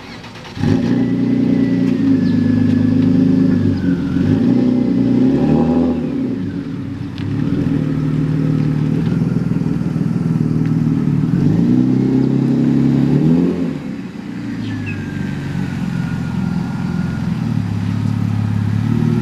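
Loud car engine that comes in suddenly about half a second in and keeps running. Its pitch rises and falls several times as it is revved and eased off.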